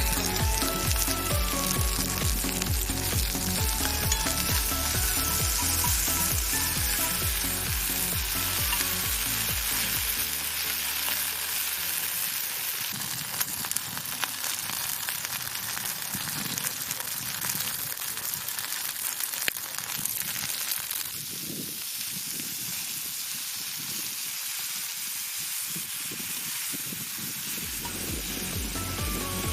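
Food frying on a hot iron griddle: a steady sizzle with a few sharp pops. Background music with a bass line plays over it for roughly the first ten seconds and comes back near the end.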